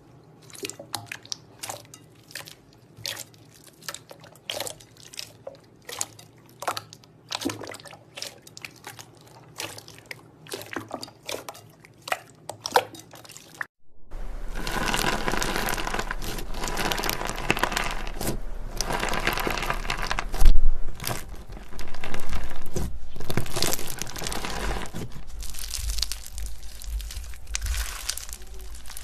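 Slime being pressed and poked by hand, giving sparse sticky clicks and pops a few times a second. About halfway through, after a cut, it changes to a louder, continuous crunching and crackling of crunchy slime.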